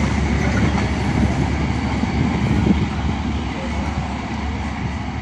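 Drutojan Express intercity passenger train running away down the line, its wheels rumbling and clattering on the rails. The sound fades slowly as the coaches draw off.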